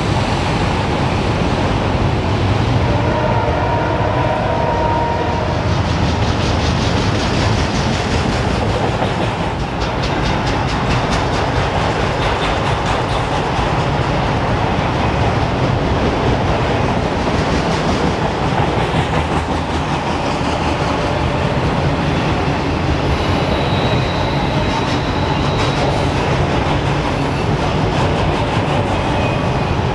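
Freight train of autorack car-carrier cars rolling past close by: a steady, loud rumble and rattle of steel wheels on rail. A couple of brief wheel squeals come a few seconds in and again near the end.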